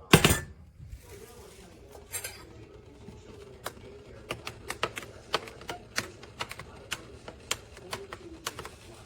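A loud sharp knock, then a run of light, irregular clicks and taps, about two or three a second, from hard objects being handled.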